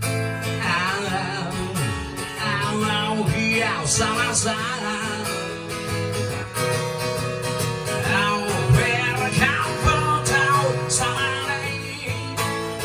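Live band music, guitar-led: a lead melody that bends in pitch plays over a steady accompaniment.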